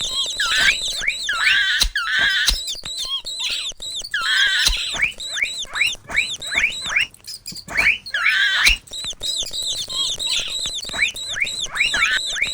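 Mouse squeaking sound effects: rapid runs of short, high, falling squeaks, several a second, coming in bursts with a short lull about seven seconds in.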